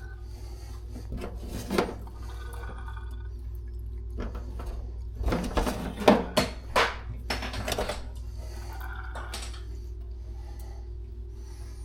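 Scattered metallic clinks and knocks of tools and faucet parts being handled, with a cluster of louder knocks in the middle, over a steady low hum.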